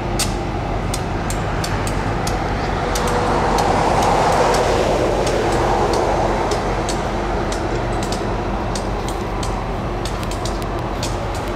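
Train noise at a station: EMD diesel-electric switching locomotives (a GP39-2 and a GP15-1) idling with a steady low drone, while a Sacramento light rail CAF train's rolling and motor noise swells to its loudest about four seconds in and then eases. Sharp clicks are scattered through it.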